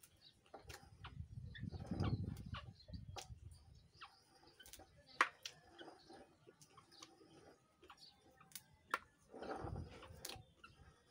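A man chewing raw lalapan vegetables with his mouth close to the microphone: scattered sharp mouth clicks and crunches, with two heavier stretches of chewing, about two seconds in and near the end.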